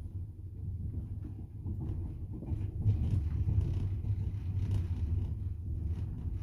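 Double-decker passenger train heard from inside the carriage: a steady low rumble with irregular clacks of the wheels over the rails, louder from about the middle.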